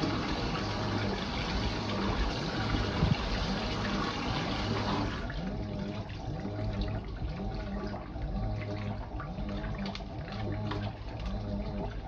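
Fisher & Paykel IW812 top-loading washing machine filling and agitating: water pours into the drum over the rhythmic back-and-forth hum of the direct-drive motor working the agitator. The inflow cuts off about five seconds in, leaving the regular swish and hum of the wash stroke.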